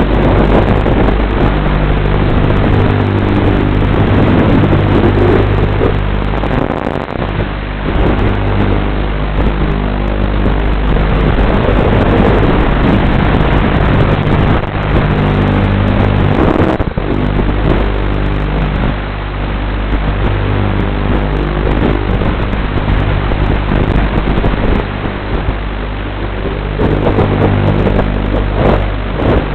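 Racing quadcopter's electric motors and propellers, recorded loud on board, a buzzing drone whose pitch steps up and down with the throttle, dropping out briefly twice.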